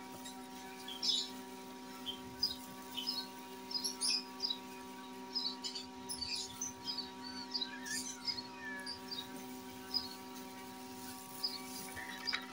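Small birds chirping irregularly in the background, many short high chirps, over a steady low hum.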